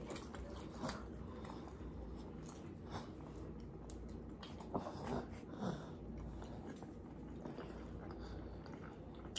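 Two people chewing mouthfuls of pizza, with faint scattered mouth clicks over a low steady hum.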